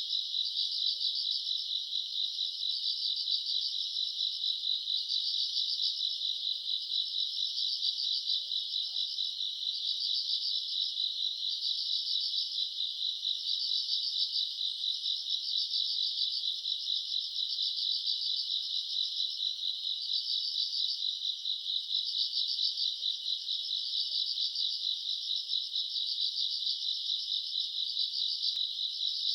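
Night chorus of crickets and other grass insects: a dense, rapidly pulsing high-pitched trill that never lets up.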